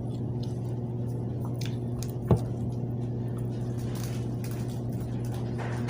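Wet chewing and mouth sounds of someone eating hard tamees flatbread over a steady low hum. One sharp click comes a little over two seconds in.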